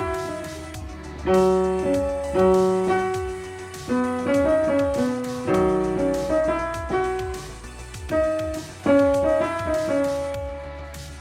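Piano being played: a slow piece of chords and melody notes, each struck and left to fade before the next.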